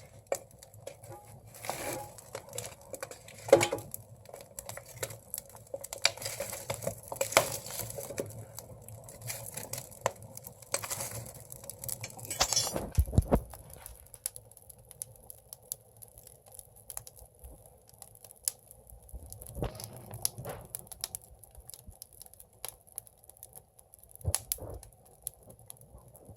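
Firewood burning in an agungi, the wood-fired firebox of a Korean ondol house, crackling and popping irregularly. The crackles come thick in the first half, with a sharp pop about three and a half seconds in, then thin out to scattered snaps.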